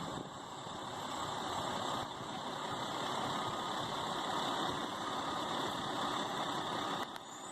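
A steady mechanical hum, like an engine idling.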